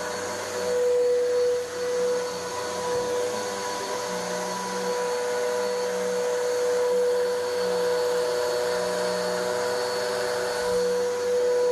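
Vacuum cleaner running with a steady motor whine as it is pushed slowly back and forth over carpet, pulling up dry soil.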